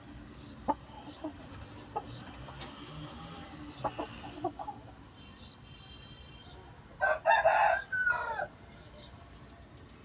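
Aseel rooster clucking a few short times, then crowing once about seven seconds in, a loud call of about a second and a half that ends on a falling note.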